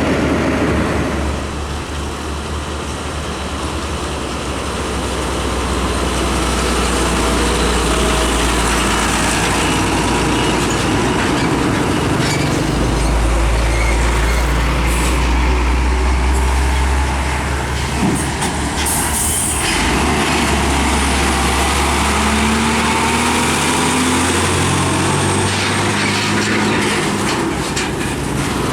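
Heavy diesel trucks driving past, a steady low engine drone with tyre and road noise, and a short hiss about two-thirds of the way through.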